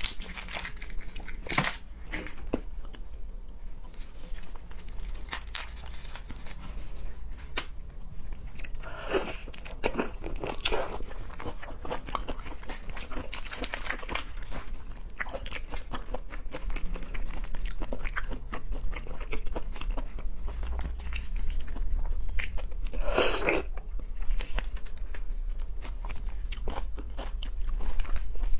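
Close-miked chewing and biting of seafood: wet mouth sounds and scattered small clicks, with louder bites around a third of the way in and again near the three-quarter mark.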